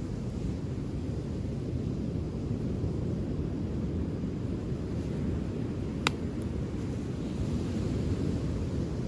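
Wood fire burning on a beach over a steady low rumble of wind and surf, with one sharp pop from the burning wood about six seconds in.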